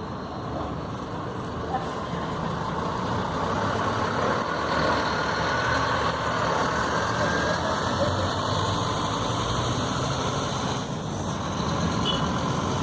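Diesel engine of a Scania K 310 bus running steadily. It grows louder over the first three or four seconds, then holds.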